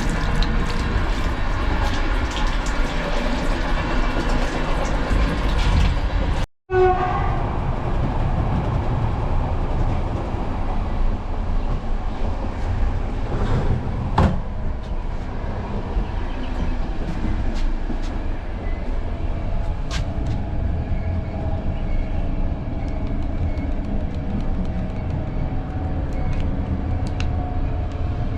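Passenger train running along the track, heard from inside a carriage: a steady rumble and rattle with occasional sharp wheel clicks. The sound cuts out briefly about a quarter of the way in, then carries on sounding duller.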